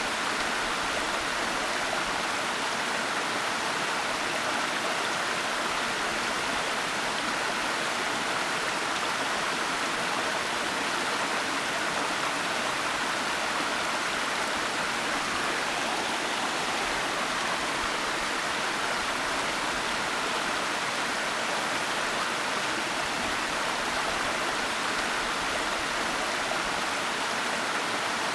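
Waterfall: a steady, unbroken rush of falling water, even in level throughout, with no distinct splashes or other events.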